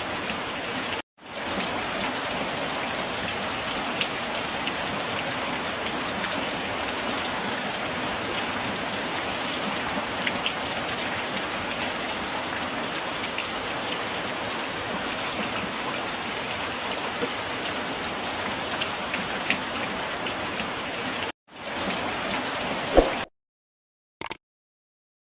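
Steady rain falling, with scattered individual drops ticking, cut off twice by brief silences and stopping about two seconds before the end.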